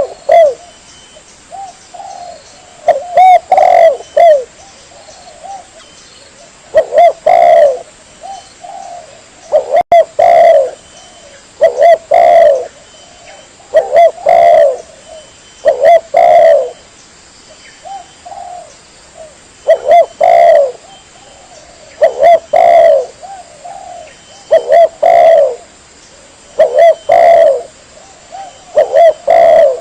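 Spotted dove cooing, a recorded lure call: short phrases of two or three loud coos, repeated about every two to three seconds.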